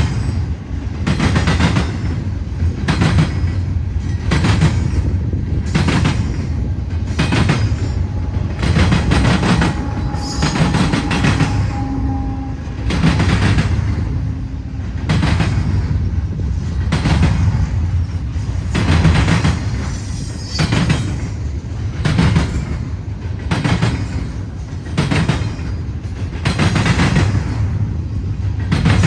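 CN freight train cars rolling past, their wheels clicking over rail joints in a steady clickety-clack rhythm. A faint wheel squeal comes in near the middle.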